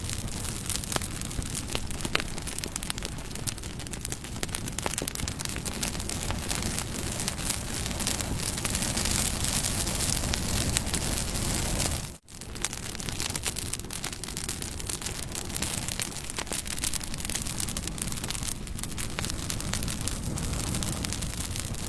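Campfire burning: wood crackling and popping in sharp snaps over a steady rush of flame. The sound drops out for a split second about twelve seconds in.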